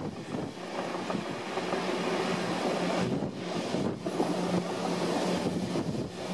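Passenger carriage of a steam-hauled heritage train running along the track: a steady rumble and rush of wheels on rail, with a constant low hum underneath.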